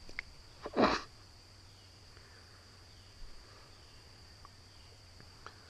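Insects (crickets) droning steadily at one high pitch, with one short, loud burst of noise about a second in and a few faint clicks.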